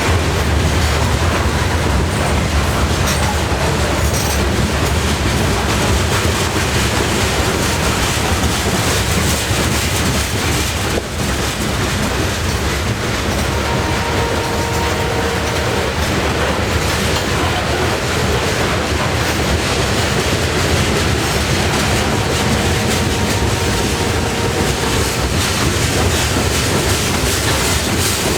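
Freight cars of a CN freight train rolling steadily past, wheels clicking over rail joints. Twice a faint, steady whine rises above the rumble for a few seconds.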